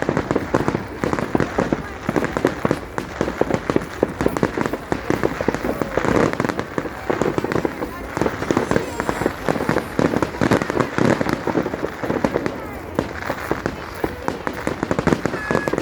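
Fireworks popping and crackling in a dense, continuous barrage, with no clear pause between the reports.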